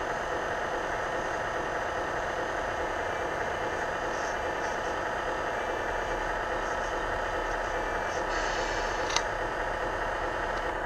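Hydraulic pump of an RC4WD 4200XL scale excavator running steadily, a continuous even hum and whine. A single sharp click about nine seconds in.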